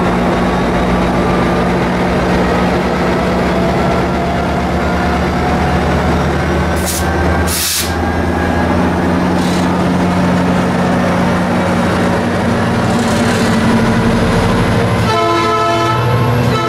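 Metrolink diesel locomotive running as the train pulls slowly out of the station, its engine note rising gradually. There are two brief hisses about seven seconds in, and the train horn sounds near the end.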